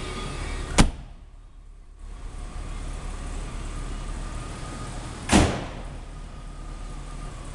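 Steady low hum of a 1986 Jaguar XJ6's straight-six engine idling, broken twice by a sharp loud thump, about a second in and again some four and a half seconds later.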